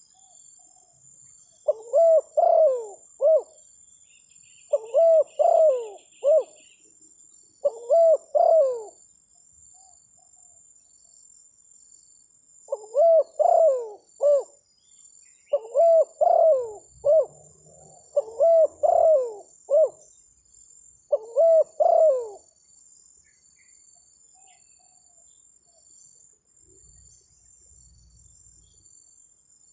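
Spotted dove cooing: about seven phrases of a few notes each, repeated every couple of seconds, then it stops about 22 seconds in. A steady high-pitched whine runs underneath.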